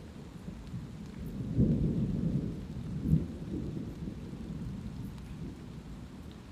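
Light rain falling steadily, with scattered drop ticks, under a low rumble of thunder. The rumble swells about a second and a half in, peaks with a sharper clap about three seconds in, then rolls away.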